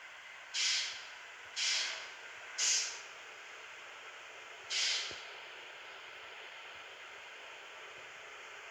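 Four short, loud bursts of hissing air from a bus's compressed-air system, three about a second apart and a fourth two seconds later, over a steady background hiss.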